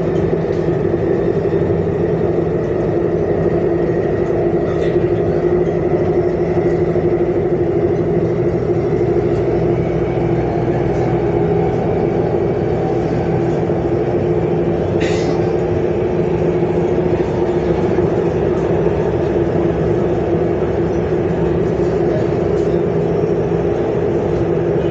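Steady running noise inside a Namo Bharat rapid-rail electric train car in motion: an even hum and rumble, with a brief sharp high click about halfway through.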